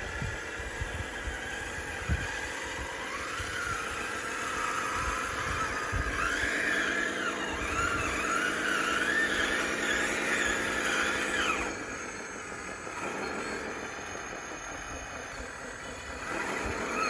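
DXR2 radio-controlled bulldozer's motors and hydraulics whining as it pushes dirt, the pitch wavering up and down with the load, then stopping about twelve seconds in.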